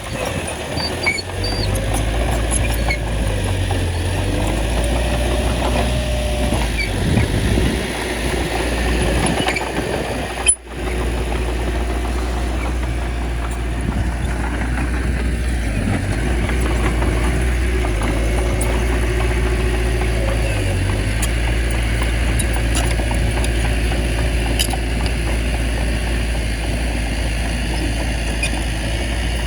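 Bulldozer's diesel engine running steadily, with faint scattered ticks over the drone. The sound drops out for a moment about ten seconds in.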